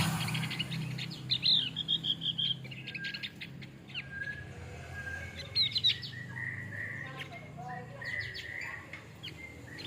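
Male Javan grey-throated white-eye singing in quick clusters of high chirping notes, with a low steady hum underneath.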